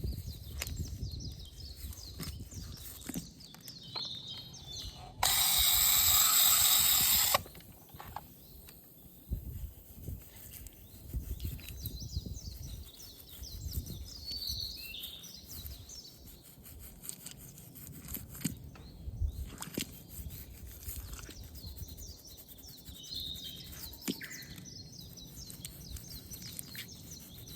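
Birds calling now and then over outdoor ambience with low rumbling. A loud hiss cuts in about five seconds in and stops suddenly about two seconds later.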